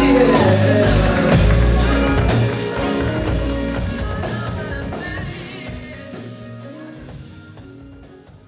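Live band music with drums, bass and keys, loud for about two and a half seconds and then fading out steadily.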